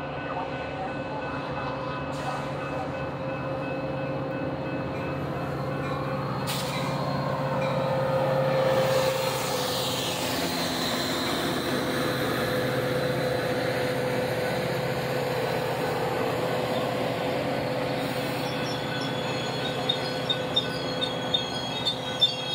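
Metra commuter train of bilevel gallery cars rolling slowly past, with a steady hum and the rumble of steel wheels on rail swelling about a third of the way in. A high wheel squeal comes about ten seconds in, and a series of sharp clicks comes near the end.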